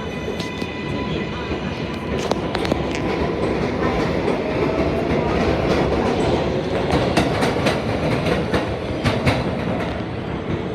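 R188 subway train of the 7 line running at speed, heard from on board: a steady rumble of wheels on rail with repeated clickety-clack clicks over the rail joints. A faint whine rises about halfway through.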